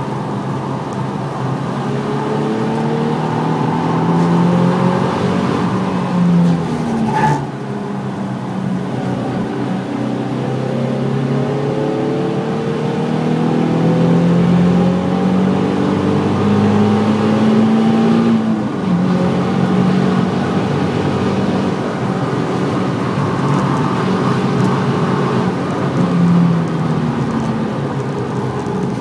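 Nissan 350Z's 3.5-litre V6 under hard acceleration, heard from inside the cabin: the revs climb steadily, then drop sharply twice, about 7 and 19 seconds in, before climbing again. A single sharp click sounds at the first drop.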